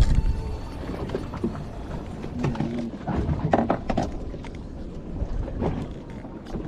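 Scattered knocks and clicks of handling on a fishing boat over a low rumble. The rumble is loudest at the very start.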